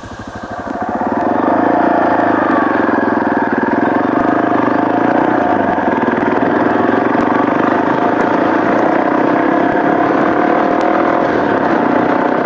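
Yamaha Serow's single-cylinder four-stroke engine running as the motorcycle is ridden, its pitch drifting gently up and down, getting louder about a second in.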